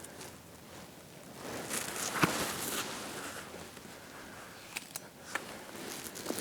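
Footsteps and rustling of clothing and gear in the leaf litter, with a sharp click about two seconds in and a few lighter clicks near the end.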